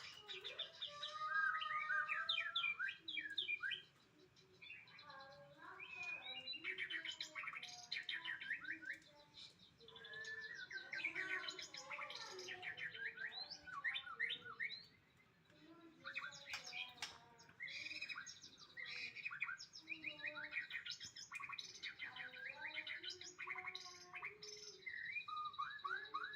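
White-rumped shama (murai batu) singing: fast, varied runs of chirps, trills and whistles, in phrases several seconds long with short pauses between them.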